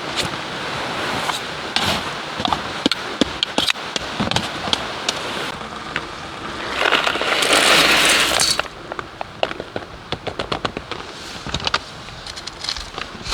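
Wood fire crackling and popping in a small wood stove, with a louder hiss lasting about two seconds around seven seconds in.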